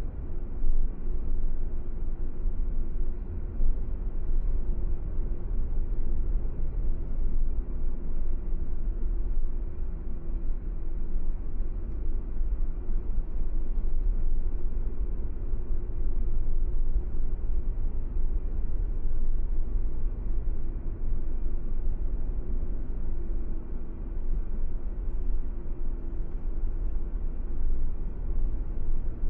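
Steady low rumble of a car driving along the road, engine and tyre noise with no change in pace.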